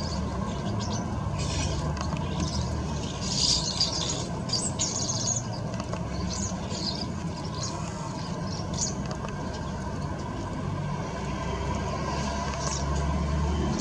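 Garden birds chirping in short, high bursts, busiest in the first few seconds and again near the end, over a steady low rumble.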